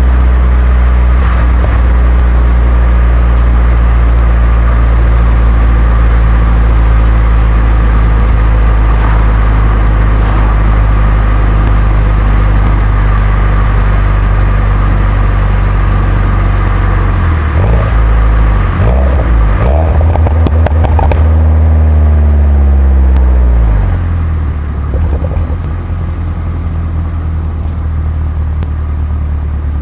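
2011 Mini John Cooper Works' turbocharged 1.6-litre four-cylinder through its stock exhaust, running at steady revs while driving. Past the middle the engine note breaks up a few times, then the revs fall smoothly and it runs quieter at low revs near the end.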